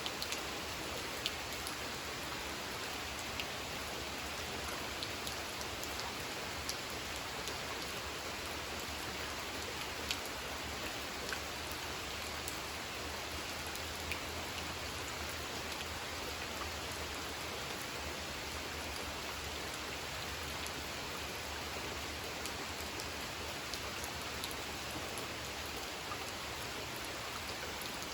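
Steady rain falling on a pond, a constant hiss with individual drops pattering and ticking here and there.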